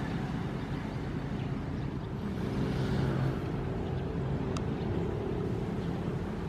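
Ocean waves breaking and washing in as a steady low rumble, with one wave swelling a little louder about halfway through.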